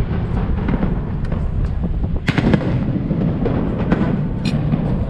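Aerial fireworks display: shells launching and bursting in a string of sharp bangs, the loudest a little over two seconds in.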